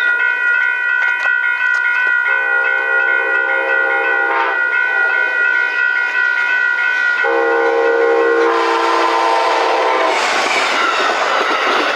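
Passenger train's multi-chime air horn sounding a long sustained chord whose notes shift a few times, then the train rushing past with wheels clacking on the rails over the last few seconds.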